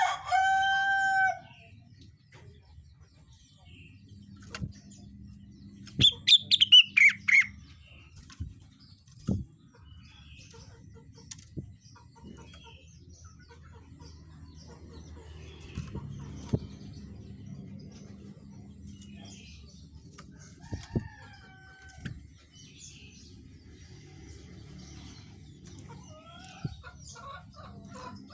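Bird calls: a long, loud call at the start, a rapid run of falling notes about six seconds in, and a shorter call near the end, with scattered faint chirps between them over a steady low hum.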